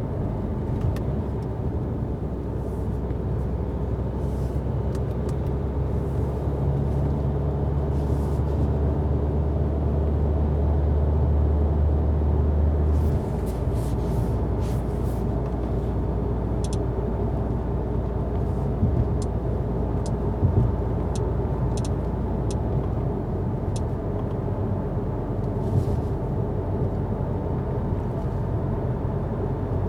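Steady drive hum of a 2019 Mercedes A-Class on a snowy road, heard from inside the cabin: engine and tyre rumble with no other dominant sound. The low rumble eases about thirteen seconds in, and a few faint sharp clicks come in the second half.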